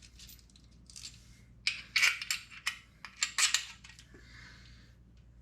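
Small metal hardware and tools clinking and clattering as they are handled, with a quick run of sharp clinks in the middle.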